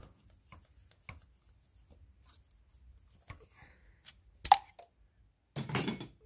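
Small metallic clicks and handling noises as a diesel injector is worked loose from the cylinder head, with one sharp metal clink about four and a half seconds in and a short scraping rattle near the end.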